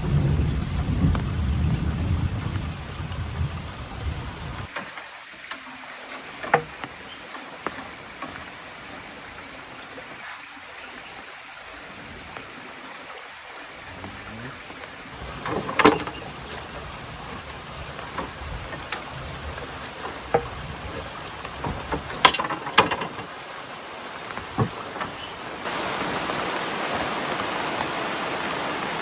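Heavy rain falling steadily, with a low rumble of thunder dying away over the first few seconds. A few sharp taps stand out now and then, and the rain hiss turns louder near the end.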